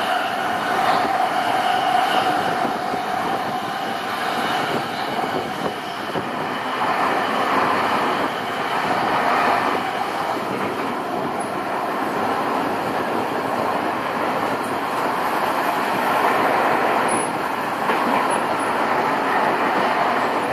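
CityRail electric passenger train running at speed, heard from inside the carriage: a continuous rumble and rushing of steel wheels on the rails. A faint high whine fades out about two seconds in.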